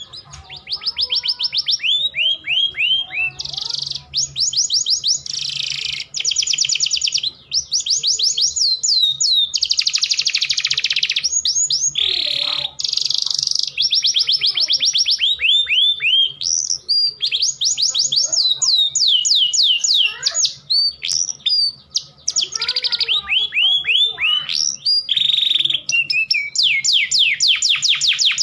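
Domestic canary breeding song: long, loud runs of fast trills, each made of rapidly repeated falling notes, changing to buzzy rolls and back, with only brief gaps. It is the male's excited courtship song, of the kind used as a lure to bring canaries into breeding condition.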